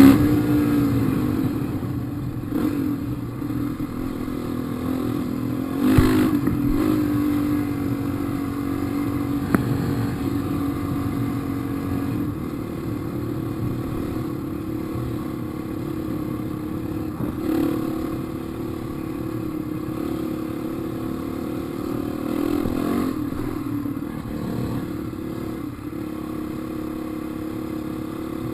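Dirt bike engine running under a rider, its pitch dropping off the throttle at the start and then rising and falling with the throttle along the trail. A sharp knock about six seconds in.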